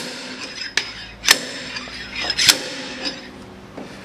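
A few sharp metallic knocks and clinks, four clear ones spread over about three seconds with weaker ticks near the end, from the steel slide hammer and the freshly knocked-off rear wheel hub.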